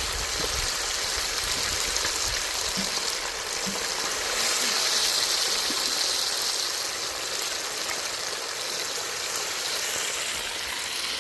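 Meat sizzling steadily as it browns in hot oil in a pot over a fire, the hiss swelling a little about halfway through.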